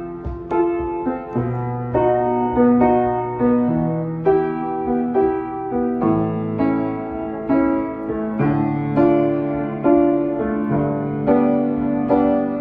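Piano playing a gentle instrumental introduction: a steady pulse of chords struck about twice a second over held bass notes.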